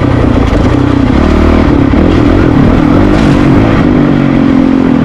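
Honda CRF450RL dirt bike's single-cylinder four-stroke engine running at steady, fairly low revs, its pitch rising and dipping a little as the bike rides down a rocky trail.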